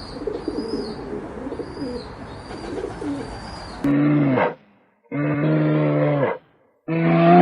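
Doves cooing, with small birds chirping high above them. About halfway through this cuts abruptly to a different animal giving three loud, low, drawn-out calls with short gaps between.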